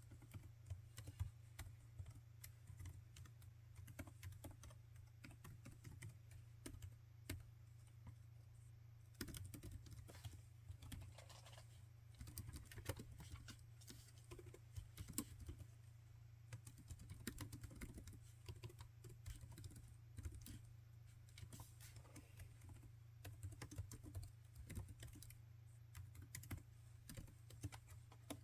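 Typing on a laptop keyboard: a steady run of quiet, irregular key clicks, over a low steady hum.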